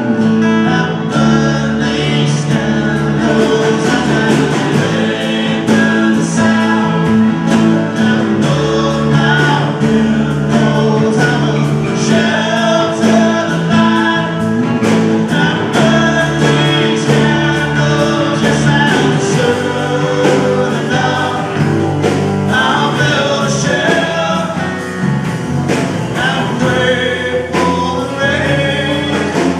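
A band playing a song live: singing over instruments, with held chords and a steady beat.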